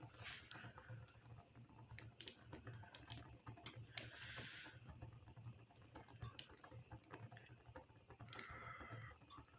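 Green parrots cracking and nibbling walnuts with their beaks: faint, irregular small clicks and crunches, with a few brief scratchy rasps.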